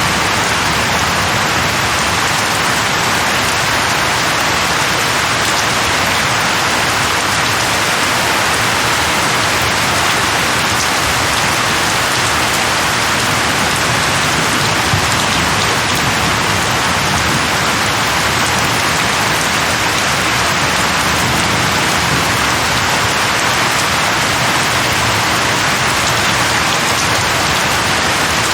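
Steady rain falling on tree leaves, an even, unbroken hiss.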